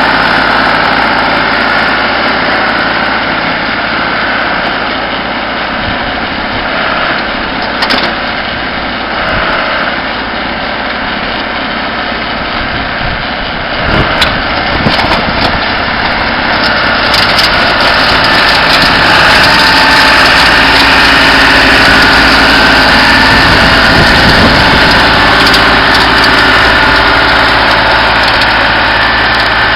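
John Deere tractor running with a Lucknow snowblower working snow. The engine runs steadily throughout and grows louder a little past the middle, with a couple of sharp knocks along the way.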